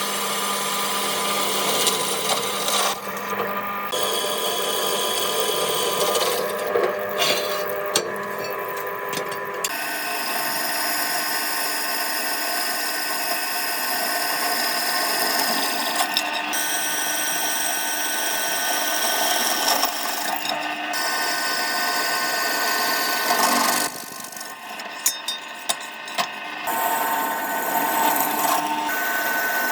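Power tools at work on metal parts: a steady machining and grinding noise that changes abruptly several times, with a few short sharp knocks near the end.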